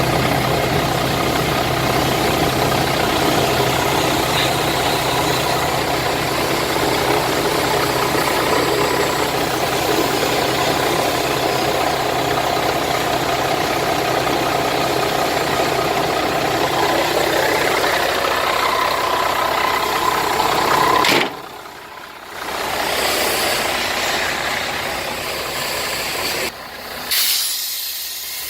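Scania 112M 320 truck's 11-litre inline-six diesel idling steadily. About three-quarters of the way in the sound drops away abruptly and returns quieter, with another sudden break near the end.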